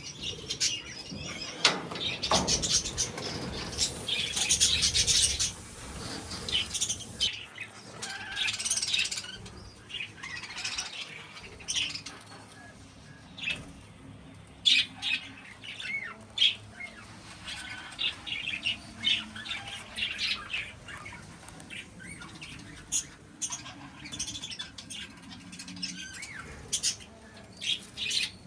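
A colony of budgies and lovebirds chattering, with many quick high chirps and harsh squawks overlapping. The chatter is busiest and loudest in the first seven seconds, then thins to scattered calls.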